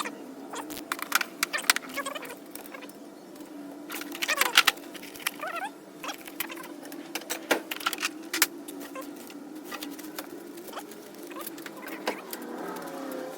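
Metal hand tools clinking and clattering as they are handled and set down, in scattered bursts of sharp clicks over a steady low hum.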